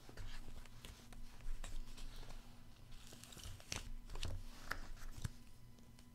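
Paper and packaging being handled: intermittent rustling and crinkling with light clicks and taps of items being moved.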